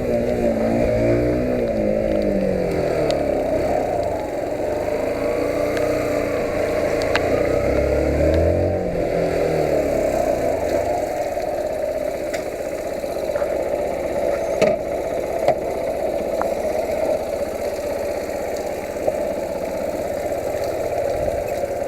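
Yamaha YBR125's single-cylinder four-stroke engine running: engine speed falls over the first few seconds, rises and drops again about eight seconds in, then settles into a steady idle. A couple of sharp clicks about fifteen seconds in.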